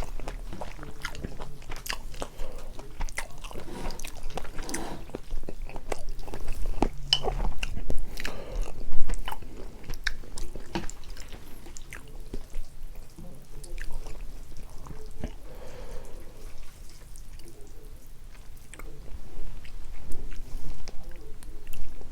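Close-miked chewing and biting of spicy carbonara fire noodles with ham and Vienna sausages: a run of wet smacks and small clicks, with the loudest bite about nine seconds in.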